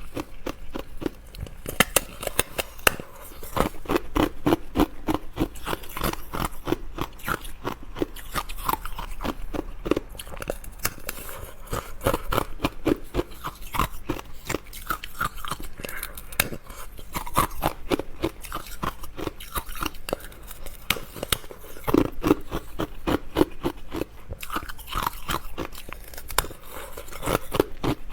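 Close-miked chewing of crisp, flaky biscuits: a steady run of irregular crunching bites and mouth sounds.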